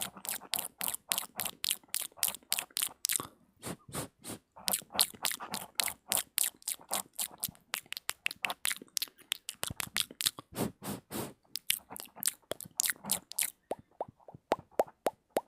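ASMR mouth sounds made close to the microphone: rapid wet clicks, pops and smacks of the lips and tongue, several a second, with brief pauses.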